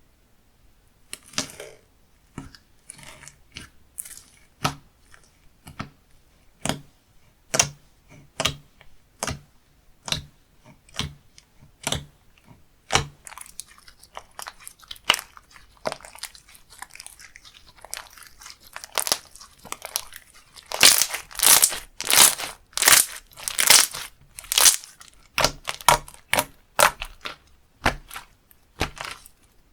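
Slime being squeezed, pressed and stretched by hand, giving irregular crunchy crackles and pops. They come sparsely at first, then denser and louder from about two-thirds of the way through.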